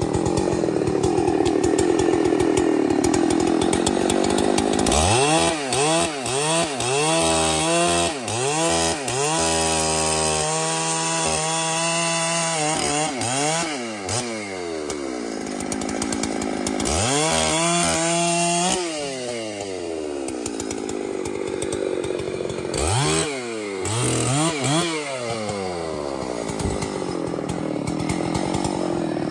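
Chainsaw running steadily in a cut, then revved up and down over and over for several seconds, with two shorter rounds of revving later and steady running between.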